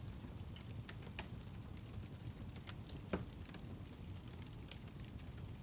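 Faint fireplace crackle: a steady low hiss of the fire with scattered small pops, and a louder pop about three seconds in.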